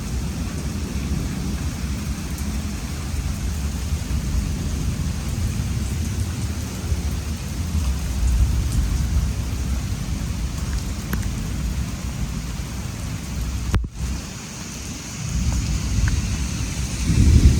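Heavy rain falling under a continuous low rumble of thunder from a supercell thunderstorm. The sound cuts out for a moment near the end, then the rumble swells again.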